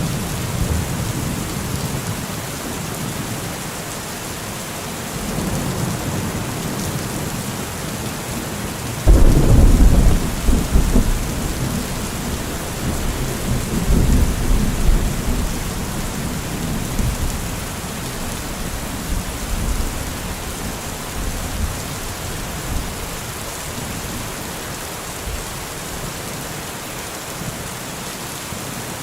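Steady heavy rain hissing, with rolling thunder underneath. A loud rumble of thunder breaks about nine seconds in, another follows around fourteen seconds, and weaker rumbles come after it.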